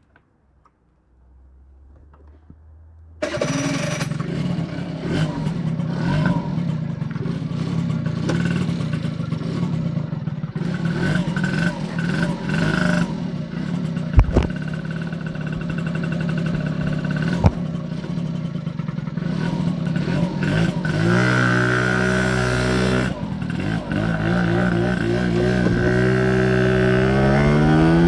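Honda Spree's small two-stroke scooter engine with an aftermarket S23 exhaust, running after it comes in suddenly about three seconds in. Two sharp clicks sound midway, a brief rev follows, and near the end the engine rises in pitch as it accelerates.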